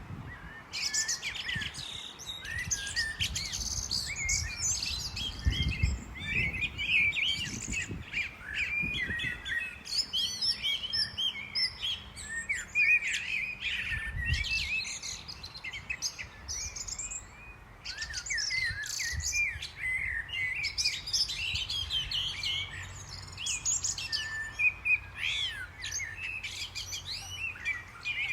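Many small songbirds chirping and twittering at once, a dense run of short, high, overlapping calls, with a couple of brief low rumbles.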